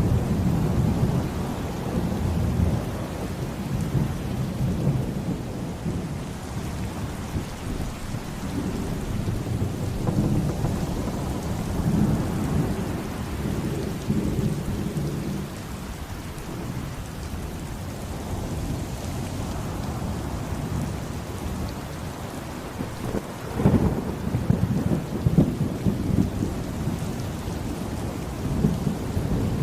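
Heavy rain with deep rolling thunder. The rumbles swell and fade, with a sharper, louder crack of thunder about three quarters of the way through.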